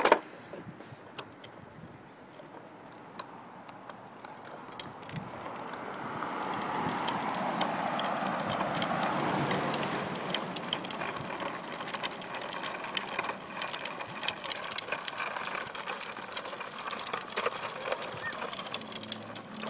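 Outdoor walking ambience: scattered small clicks and taps, with a broad rush of noise that swells a third of the way in and slowly fades.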